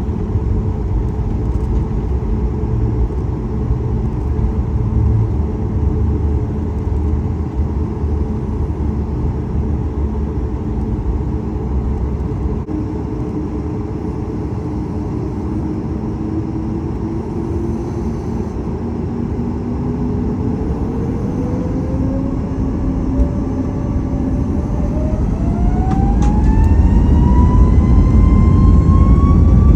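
Boeing 737 MAX 8's CFM LEAP-1B jet engines heard from inside the cabin: a steady rumble, then from about two-thirds of the way in a whine that climbs steadily in pitch as the engines spool up toward takeoff thrust, getting louder near the end.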